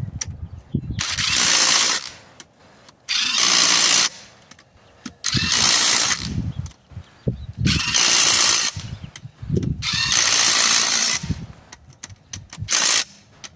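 Power impact wrench running lug nuts onto a car wheel, in five bursts of about a second each, a couple of seconds apart, and a short one near the end, with small knocks of the nuts and socket in between.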